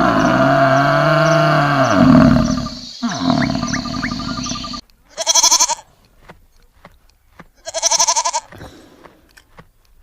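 A loud, drawn-out animal call for the first few seconds, then three separate quavering bleats, each under a second long and about two and a half seconds apart.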